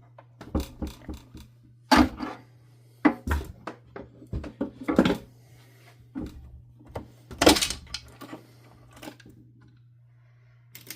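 Irregular knocks, clunks and clatter of vacuum cleaner parts being handled during disassembly on a workbench. Louder thunks come about two, three, five and seven and a half seconds in.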